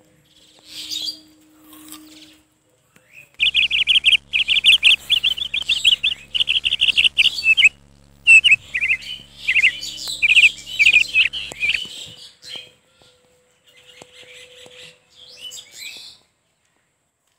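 Small birds chirping in quick, rapid runs of high chirps for several seconds, with a faint low hum beneath. Only a few scattered chirps follow.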